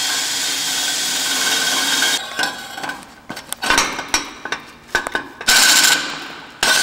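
Power drill cutting a 1.5-inch hole into a motorcycle exhaust: it runs steadily for about two seconds, then in short stop-start bursts with scraping and clicks as the cutter bites into the metal.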